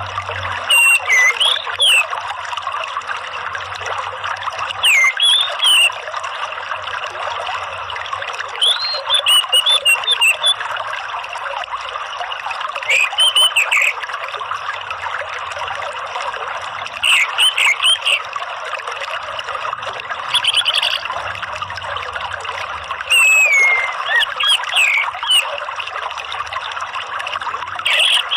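Orange-headed thrush (anis merah) song: short, loud, swooping phrases repeated every three to four seconds over a steady sound of trickling water.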